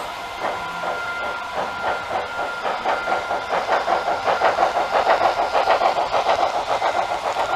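Märklin Mikado model steam locomotive's ESU V4.0 sound decoder playing steam exhaust chuffs through the locomotive's small speaker, speeding up from about one a second to about four a second and growing louder as the locomotive pulls away.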